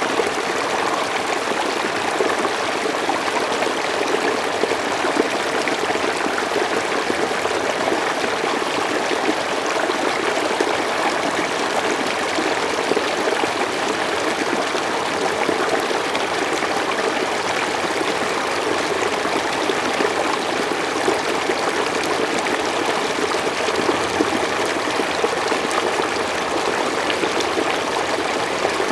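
Mountain stream flowing steadily over rocks, a continuous rush of running water.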